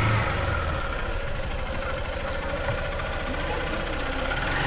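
Small motorbike engine running steadily at low speed while being ridden slowly.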